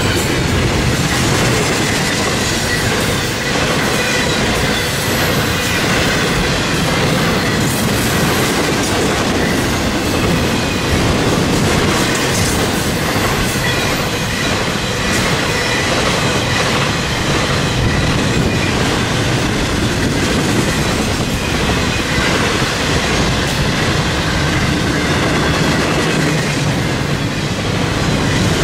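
Double-stack intermodal freight cars rolling past: a steady, loud rumble of steel wheels on rail with clickety-clack. A faint high steady squeal from the wheels runs through it.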